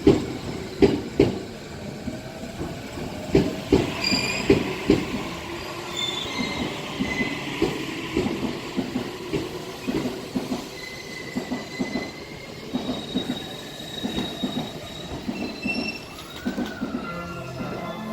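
Electric train running through the station: its wheels knock over the rail joints in uneven groups, with thin high wheel squeals coming and going.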